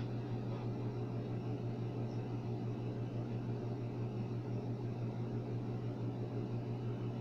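Steady low hum with an even hiss from an appliance or fan running, unchanging throughout.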